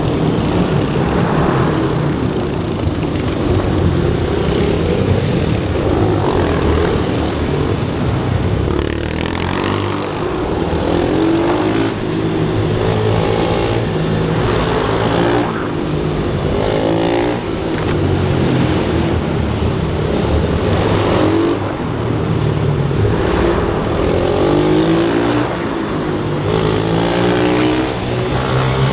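A small-displacement motorcycle engine running hard at track speed. It revs up in repeated rising pulls, with brief dips every few seconds where the throttle is backed off.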